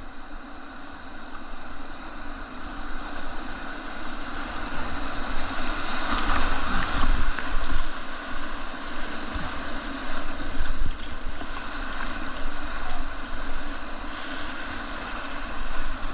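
Whitewater rushing as a kayak runs through a rapid and its holes, the water noise building to its loudest about six to eight seconds in, with wind buffeting the microphone.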